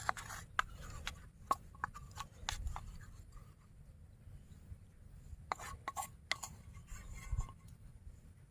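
Scattered light clicks and taps over a low steady rumble, with a cluster of them near the start and another about two-thirds of the way through.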